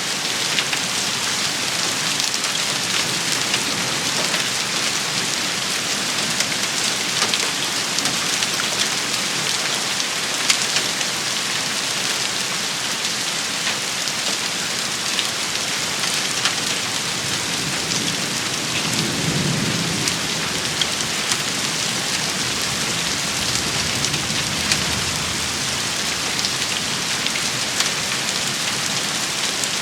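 Steady rain shower falling on a surface, an even hiss with scattered sharp drop ticks. A brief low rumble swells and fades about two-thirds of the way through.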